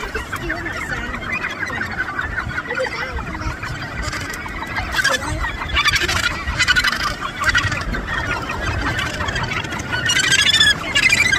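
A colony of Australasian gannets calling: many harsh, overlapping calls at once, growing louder near the end.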